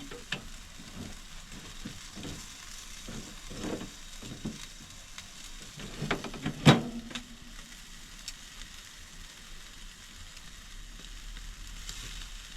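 Jerk chicken legs sizzling steadily on a barbecue grill, with a few light clicks and one sharp knock a little after halfway.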